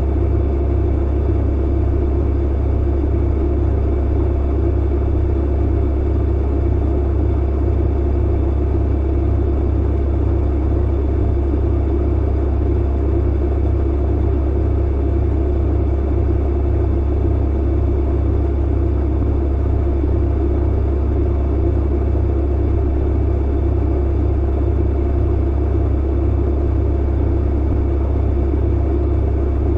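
Clothes dryer running: a steady low hum and rumble from the motor and turning drum, with a few faint steady whining tones above it and no distinct tumbling knocks.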